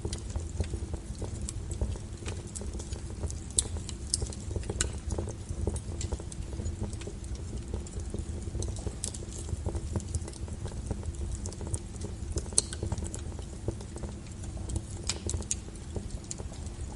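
Wood logs burning in a fireplace: a steady low rumble of the fire with irregular sharp crackles and pops.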